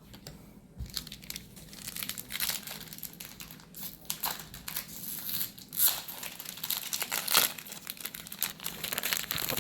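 Crinkly foil booster pack wrapper being torn open and crumpled, a dense run of crackles with louder bursts.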